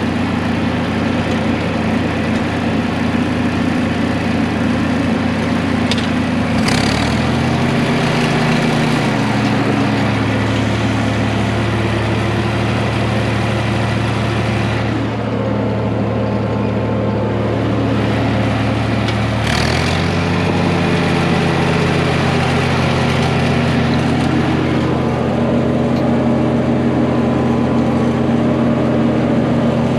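Engine of a vehicle being driven, running steadily, its pitch shifting about a quarter of the way in and again about two-thirds of the way through as the engine speed changes.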